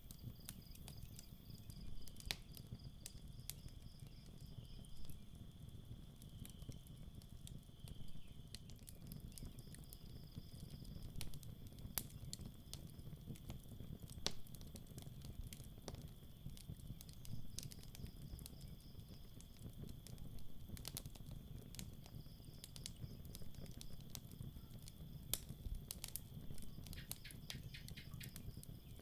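Campfire crackling, with sharp pops every second or two over the low rumble of the flames and a quick cluster of ticks near the end. Crickets chirp steadily behind it in a high pulsing trill.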